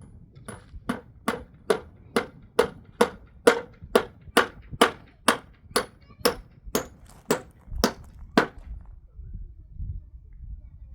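A steady series of about eighteen hard knocks, a little over two a second, that stops about eight and a half seconds in.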